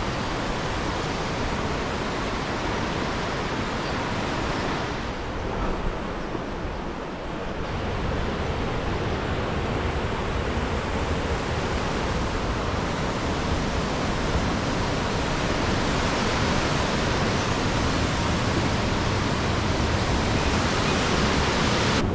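Loud, steady rush of fast-flowing mountain river water in high flow, briefly dipping about five seconds in.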